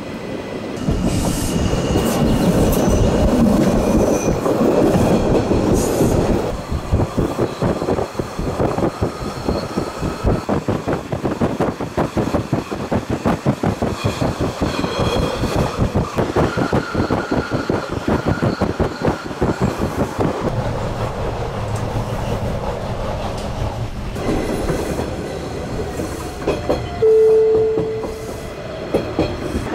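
Bernese Oberland Railway narrow-gauge train running, heard from on board: a heavy rumble with faint squealing from the wheels at first, then a fast run of clicking from the wheels over the rail joints. Near the end a short steady tone sounds for about a second.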